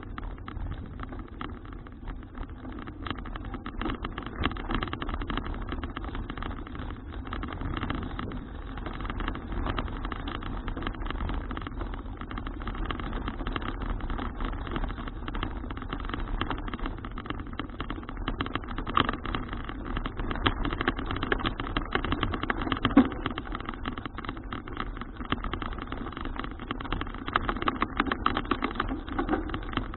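Riding noise of a Citi Cruiser CFH700 folding bicycle as heard by an action cam on the move: a steady rumbling hiss full of small rattles and knocks, with one sharper knock about two-thirds of the way through.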